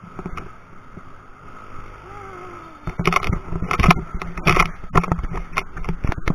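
Bicycle rolling over rough ground, with wind and road noise and then, from about three seconds in, a run of loud knocks and rattles as the bike jolts over bumps.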